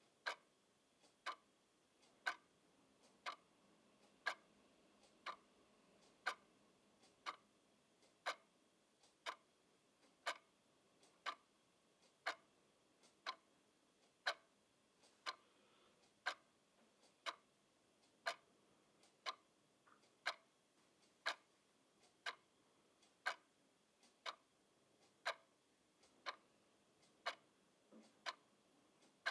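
Clock ticking steadily, about one tick a second, the ticks alternating louder and softer in a tick-tock pattern.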